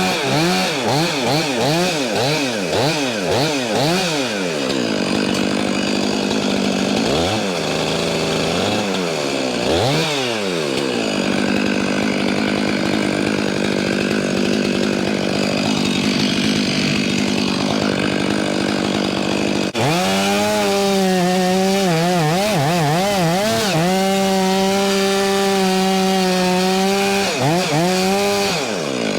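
Stihl MS 500i chainsaw, a fuel-injected two-stroke, revving up and down in quick throttle blips, then running steadily as it bucks a maple log. Its pitch holds high in the second half, with a few dips near the end.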